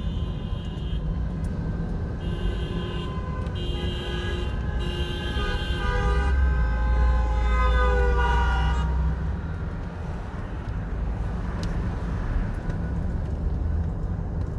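Several vehicle horns honking in a string of blasts over the steady rumble of many car and truck engines; the honking stops about nine seconds in, leaving only the engine rumble.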